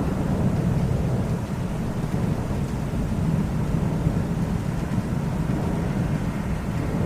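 Rolling thunder: a steady low rumble without sharp cracks, and no rain.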